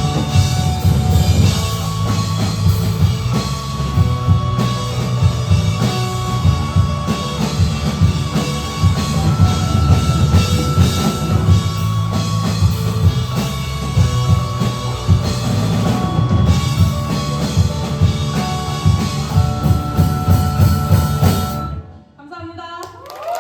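Live rock band playing the instrumental close of a song, with a full drum kit, bass and electric guitar, stopping abruptly near the end.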